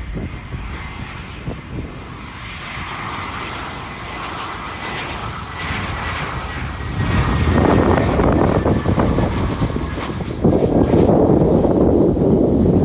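Airbus A320 jet engines, a steady whine with a high tone over a rushing roar, getting louder as the airliner approaches; a heavy low roar takes over in the second half.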